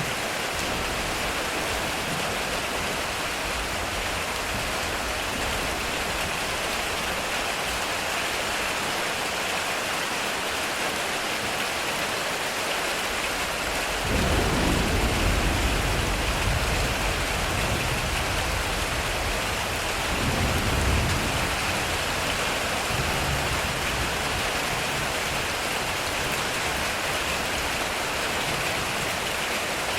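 Heavy rain falling steadily on a metal roof. About halfway through, thunder rumbles in suddenly and rolls on for several seconds, with a second, shorter rumble a few seconds later.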